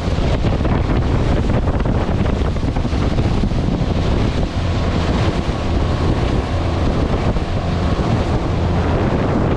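Heavy wind noise on the camera microphone as a small Gheenoe boat runs under way, with the steady low drone of its outboard motor beneath it.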